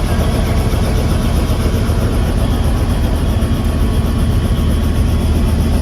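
Helicopter engine and rotor running steadily, a loud low drone with a fast, even beat.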